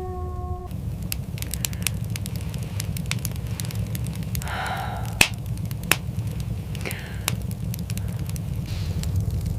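Fire crackling with many sharp pops, two louder ones a little past the middle, over a steady low rumble. At the start, the tail of a wolf howl, falling in pitch, cuts off within the first second.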